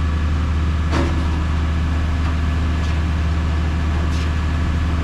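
Steady low drone of idling heavy machinery, with a short sharp click about a second in.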